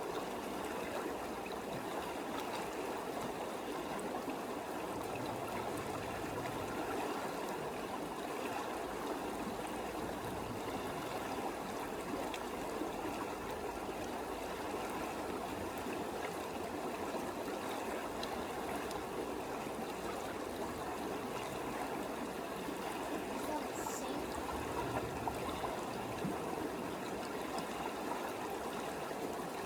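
Creek water running steadily, an even rushing sound that doesn't change.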